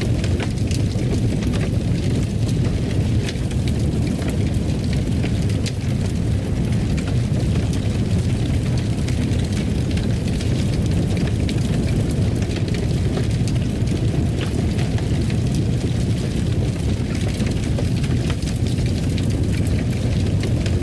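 Fireplace fire burning with a steady low roar and scattered small crackles and pops.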